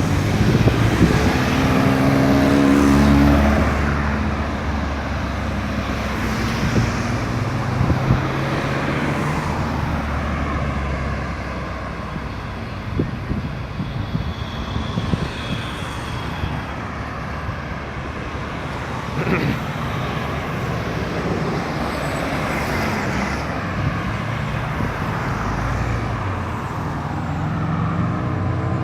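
Road traffic at a roundabout: cars and other vehicles driving past, their engines rising and falling in pitch as they slow and pull away. An engine note stands out in the first few seconds and again near the end.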